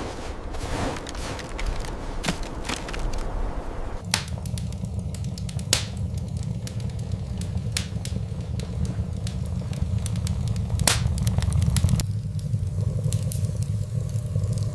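Wood fire crackling, with scattered sharp pops and snaps; a steady low rumble starts suddenly about four seconds in and runs under the pops.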